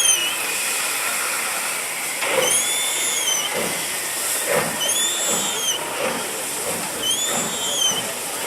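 Steam locomotive hissing, with a squeal that rises and falls in pitch about every two and a half seconds, four times, over faint rhythmic knocking.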